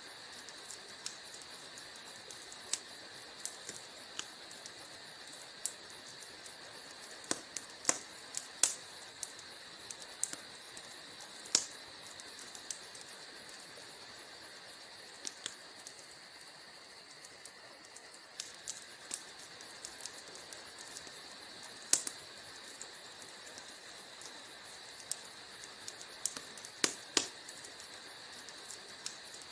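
Wood fire in a fireplace crackling: irregular sharp pops and snaps over a steady soft hiss, with the loudest pops about eleven and twenty-two seconds in.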